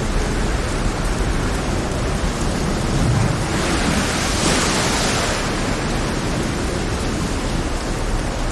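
Heavy rain over a rough, stormy sea: a steady dense hiss of rain and surf, with a wave surging up about four seconds in and falling away again.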